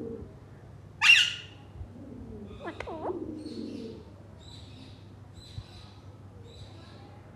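Pet parrot squawking: one loud, sharp screech about a second in, then a softer warbling call and a series of faint, short high chirps.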